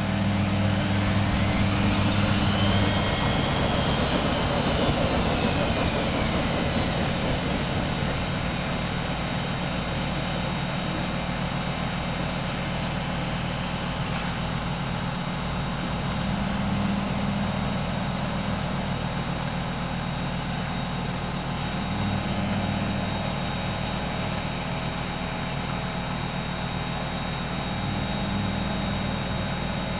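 Privileg 370 S washing machine running, with a steady rushing noise throughout. In the first few seconds a motor whine rises and then falls in pitch, and a low hum swells and fades several times.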